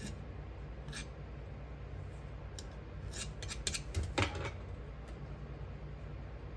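A hand tool working a Petrobond sand mould: single short clicks at the start and about a second in, then a quick run of crisp scrapes and clicks from about two and a half to four and a half seconds in. A steady low hum runs underneath.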